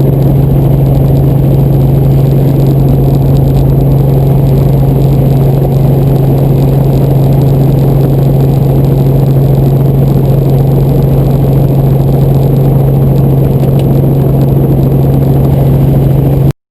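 Helicopter running: a steady, loud mechanical drone with one strong low hum. It cuts off suddenly near the end.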